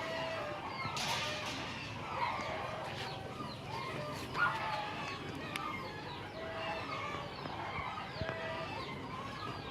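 A flock of chickens clucking and calling, many short overlapping calls, most of them falling in pitch.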